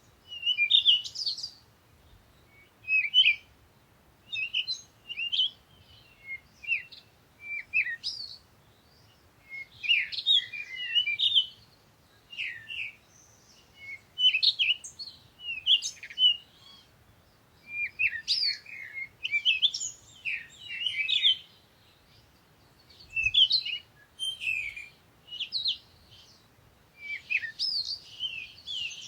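Songbirds singing in a forest: short phrases of quick chirps and trills repeated every second or two, with brief pauses between them.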